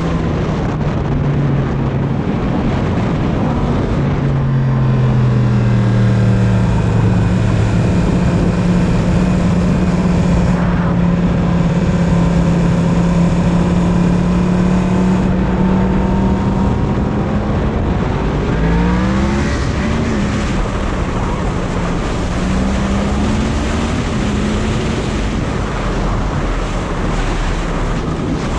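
Yamaha MT-10's crossplane inline-four running under way beneath heavy wind rush on the microphone. The engine note holds steady through the middle, then climbs sharply about two-thirds in as the bike accelerates.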